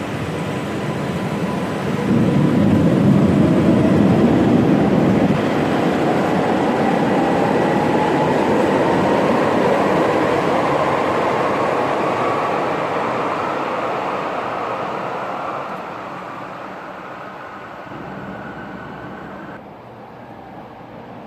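Stuttgart Stadtbahn light-rail train pulling away: a swell of running noise about two seconds in, then the traction motors' whine rising steadily in pitch as the train accelerates, fading as it moves off.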